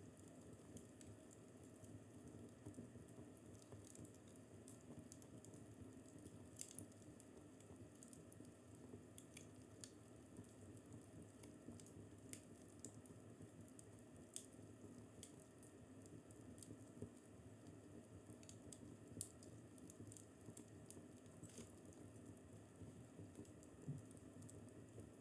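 Wood fire crackling faintly in a fireplace: scattered small sharp pops and snaps, a few louder ones, over a soft steady hiss.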